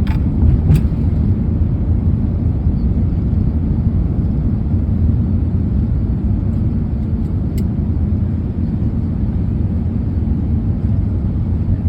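Steady low rumble of a vehicle in motion, with a couple of faint clicks.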